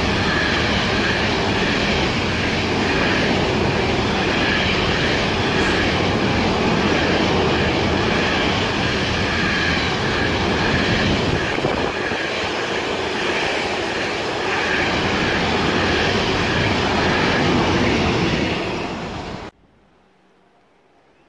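Freight train of truck trailers on flat wagons passing close by at speed, a steady loud rumble and rattle of wheels on rail. It cuts off suddenly near the end.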